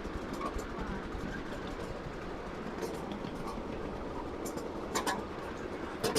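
Miniature ride-on railway train rolling along its track, a steady rumble of small wheels on rail with a few short clicks.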